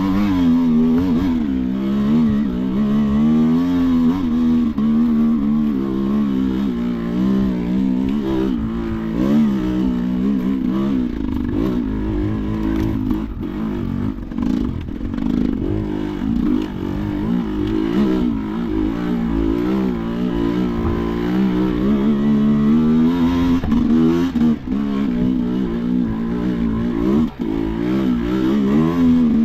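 Sherco enduro motorcycle engine under constant throttle changes, its pitch rising and falling over and over as the rider works the throttle.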